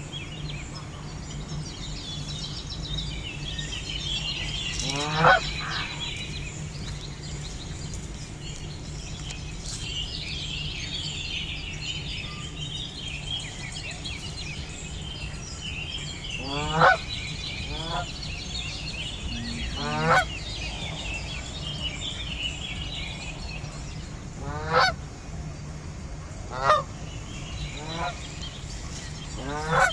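Canada geese honking: about eight short single honks, a few seconds apart and mostly in the second half, over a constant high-pitched chatter and a steady low hum.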